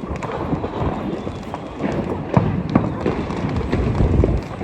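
Deepavali firecrackers going off: a string of scattered sharp pops and cracks over a low rumbling background, with a couple of louder cracks about two and a half seconds in.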